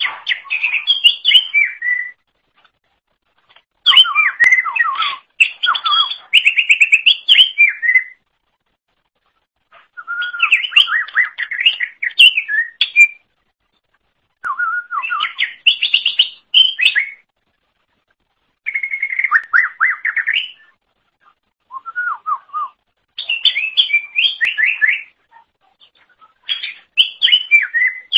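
Green leafbird (cucak ijo) singing: a string of short phrases of rapid warbling and trilled notes, each one to three seconds long, with brief pauses between.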